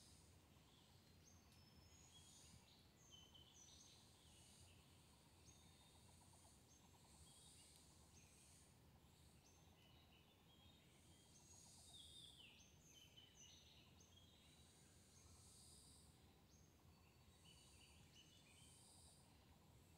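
Faint chirps and short calls from several small birds, coming again and again, with one louder falling call about twelve seconds in, over a low steady background rumble.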